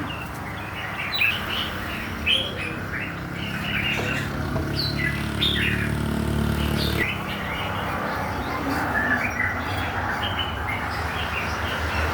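Many small birds chirping, short high chirps overlapping one another throughout. Under them runs a low steady hum that is strongest in the middle and cuts off about seven seconds in.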